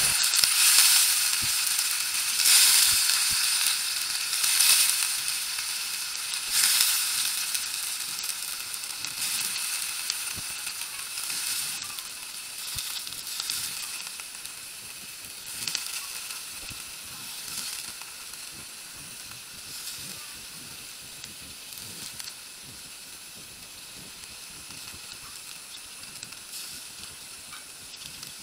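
Vegetables sizzling in a hot wok, with repeated surges of sizzle as more pieces go in. The surges grow weaker and the sizzling dies down toward the end.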